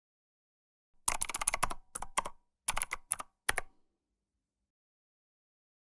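Typing on a computer keyboard: a quick run of key clicks about a second in, then a few short bursts of keystrokes that stop after about three and a half seconds.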